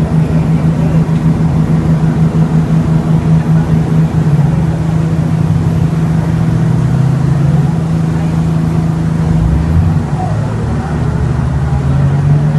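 A boat's engine running loudly and steadily with a low hum. A second, lower tone comes in and shifts about nine seconds in.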